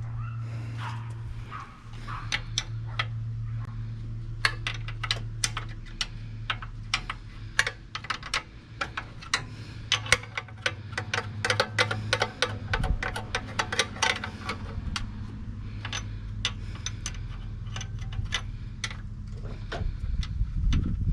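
Hand tools and metal engine parts clicking and clinking in quick, irregular taps during engine disassembly, densest about halfway through, over a steady low hum.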